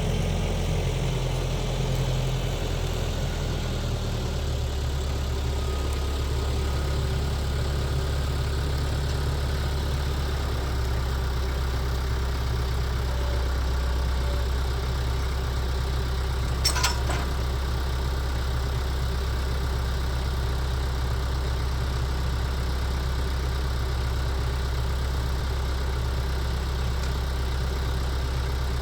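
Engine of a log-lifting machine running steadily at low speed, its pitch shifting slightly about four seconds in. One short sharp knock about seventeen seconds in.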